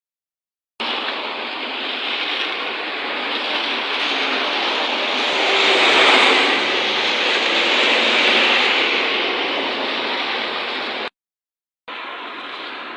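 Rain and the tyre hiss of a bus on a wet road, a steady rushing noise that swells as it passes about six seconds in. The sound cuts out briefly near the end and resumes.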